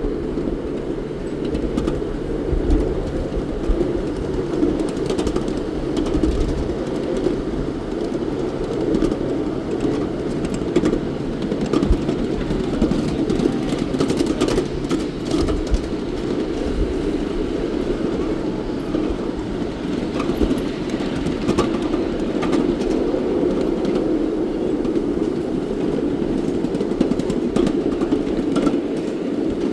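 A train running steadily along its track: a continuous rumble of wheels on rails, with scattered clicks and knocks.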